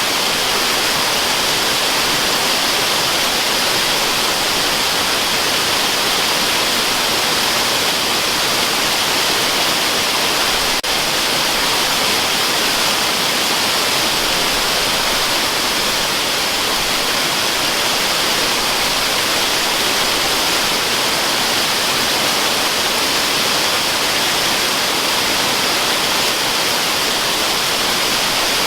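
Waterfall, a steady unbroken rush of falling water with a bright, hissing top.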